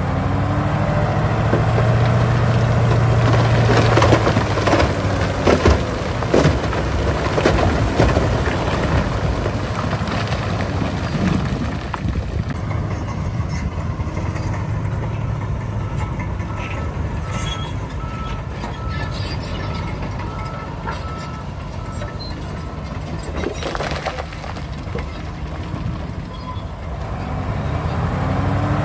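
Heavy diesel earthmoving machinery running with a steady low drone, with clanks and knocks of rock and metal in the first half. A faint run of evenly spaced beeps sounds a little past halfway.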